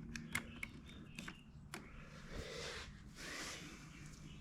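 Faint scattered clicks and soft rustling: pliers and hands working at parts inside a small inverter generator's case.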